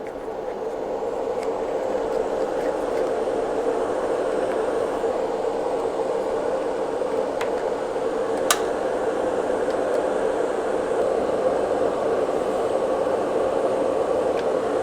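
Soldering fume extractor fan spinning up over the first couple of seconds, then running steadily with a constant whooshing hum. A single faint click about two-thirds of the way through.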